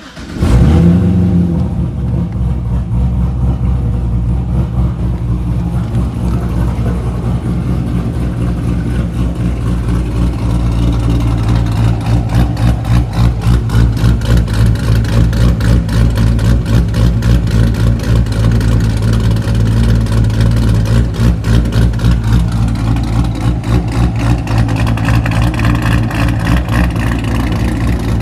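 2007 Corvette Z06's LS7 V8, with an aggressive cam, long-tube headers and a nearly straight-piped exhaust, starting up with a loud flare about half a second in. It then settles into an idle with a rhythmic, pulsing lope. It is heard first from the driver's seat and later from behind the car at the exhaust tips.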